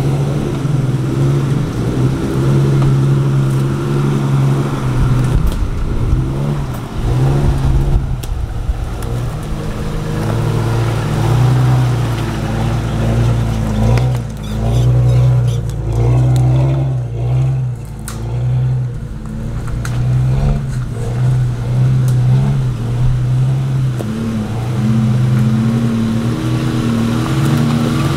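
A 4x4's engine working off-road, its pitch holding and then rising and falling as the throttle is worked, with dips in between.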